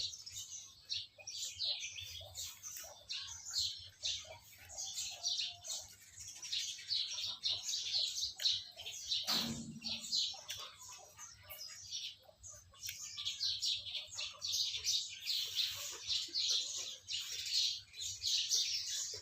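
Small birds chirping busily, many short high chirps overlapping one after another. About halfway through there is one brief, lower, louder sound.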